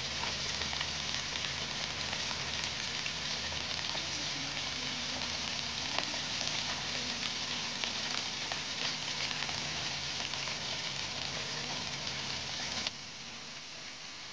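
Chicken pieces frying in oil in a pan: a steady sizzle with scattered small pops. About 13 seconds in the sizzle drops to a quieter level.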